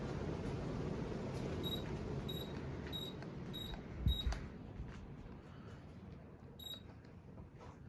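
Casablanca Stealth ceiling fan's airflow rush dying away as the fan slows. Over it come a string of five short high-pitched electronic beeps about two-thirds of a second apart, a low thump just after them, and one more beep near the end.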